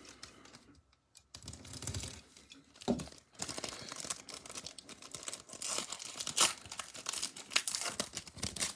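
Foil wrapper of a Bowman Platinum baseball card pack being torn open and crinkled, with sharp crackles and rustling, after a brief pause about a second in.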